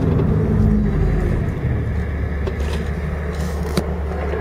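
Car engine and tyre noise heard from inside a moving car's cabin: a steady low engine drone with no revving. A single sharp click comes near the end.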